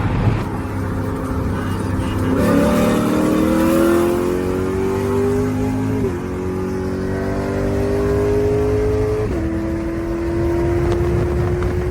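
Muffler-deleted 5.0-litre V8 accelerating hard. Its note climbs steadily and drops sharply at two upshifts, about six and nine and a half seconds in.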